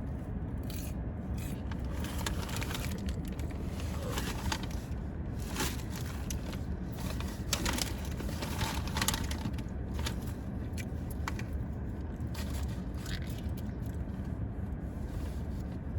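Paper fast-food bag and wrappers rustling and crinkling in irregular bursts, over a steady low car hum.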